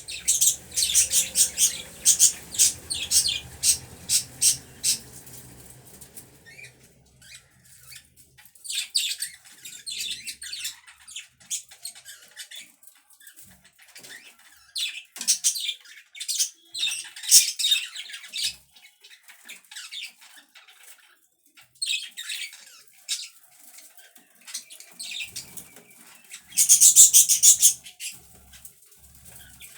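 Pet budgerigars chirping and chattering in bursts of rapid, high chirps with short pauses between, loudest near the end.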